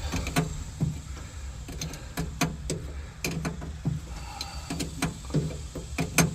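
Irregular sharp clicks and knocks, several a second, over a low steady hum.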